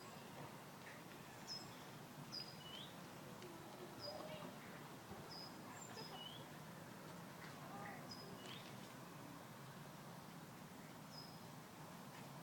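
Small birds chirping faintly: short, high chirps repeated every second or so, with a gap of a few seconds near the end, over a steady low background hum.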